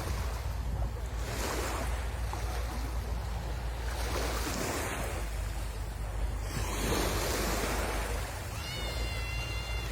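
Sea waves breaking and washing up the shore in repeated surges, with a low wind rumble on the microphone. Near the end a brief high, steady whistle-like tone sounds over the surf.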